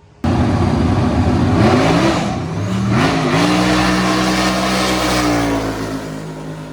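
Car engine accelerating hard, starting abruptly: the pitch climbs, drops at an upshift and climbs again, then holds steady before slowly falling and fading as the car pulls away.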